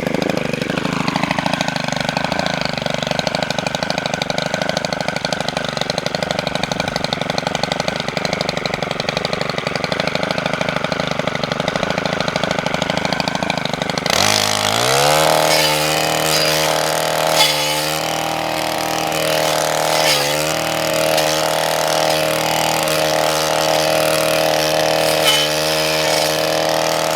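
Gas string trimmer (weed eater) engine running at a steady lower speed, then revved up sharply about halfway through and held at high throttle. Its speed dips briefly a few times as it cuts into willow growth.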